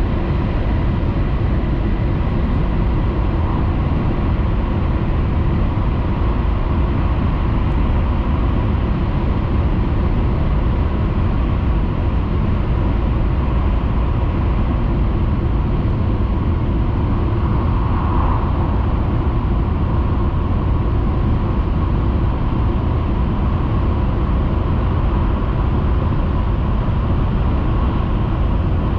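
Cabin noise of a Tohoku Shinkansen Hayabusa train running at speed: a steady rumble heaviest in the bass, with a faint steady whine over it and a brief swell about two-thirds of the way through.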